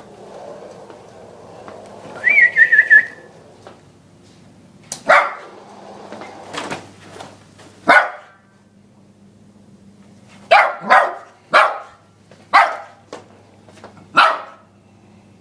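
Lhasa Apso x Maltese puppy barking at a vacuum cleaner. A loud high wavering whine comes about two seconds in, then sharp single barks, coming faster near the end.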